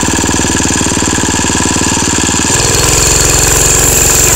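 Mini bike's small engine running, its firing pulses steady; about two and a half seconds in its note drops and gets a little louder.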